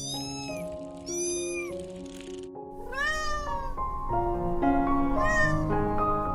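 Kitten meowing four times in short, high-pitched, rising-and-falling calls over background music.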